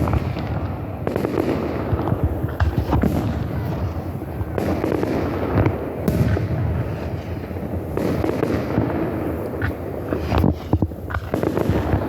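Aerial fireworks bursting one after another in a dense barrage: deep booms and sharp cracks over a continuous rumble, with no pause between shells.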